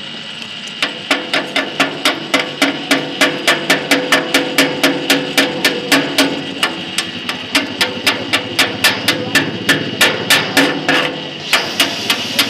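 A hammer striking metal in rapid, even blows, about four a second, with the metal ringing after each strike; the blows stop briefly near the end, then start again.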